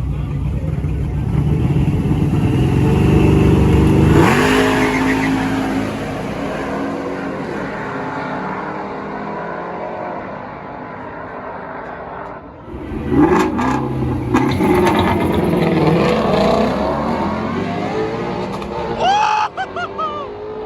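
Cars' engines at full throttle on a drag strip, their pitch climbing as they accelerate and shift. A first pass peaks and fades about four seconds in, and a second loud launch comes about 13 seconds in, climbing again near the end.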